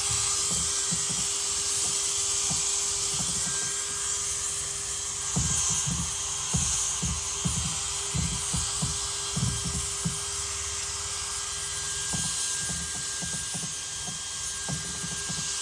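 Power drill running at a steady speed with a polishing pad, buffing plastic polish into a headlight lens, as a steady whine with irregular low knocks from the pad and handling.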